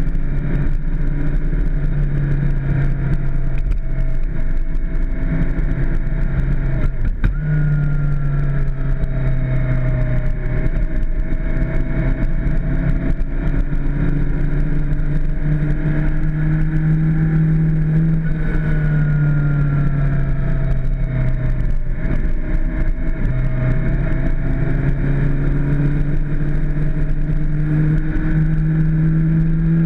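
Suzuki GSX-R600 inline-four engine running under way on a twisty descent, its pitch stepping up and down several times with gear changes and throttle, over a steady rush of wind on the mic.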